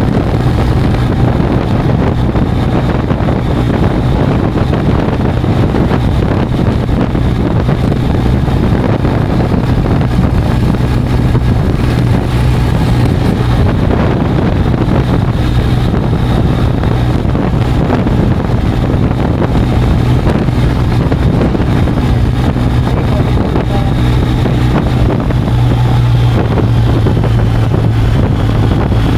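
BMW R1250GS boxer-twin engine running steadily while riding, with wind noise on the helmet or action-camera microphone.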